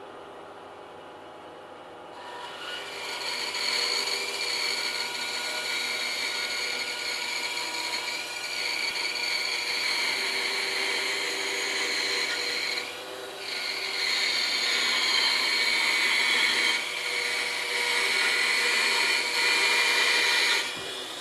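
Bandsaw blade cutting through a thick block of 4x4 wood, with a steady high whine over the saw's running noise. The cut starts about two seconds in, and the sound eases off briefly a few times as the feed slows.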